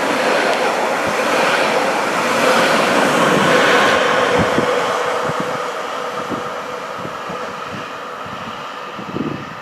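Train running past on the line, a loud rushing rumble with a faint steady tone that peaks about three to four seconds in and then slowly fades as it moves away.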